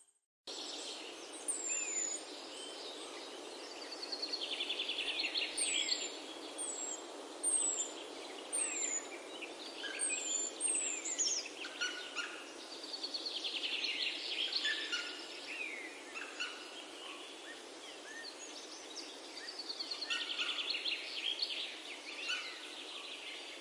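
Several birds calling over a steady background hiss: short high chirps that slide down in pitch, mostly in the first half, and quick rattling trills that come three times.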